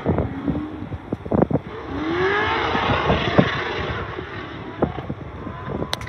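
Freight train's bulk wagons rolling past, steel wheels rumbling and clattering on the rails with repeated knocks and clanks. A short squeal rises and falls in pitch about two seconds in.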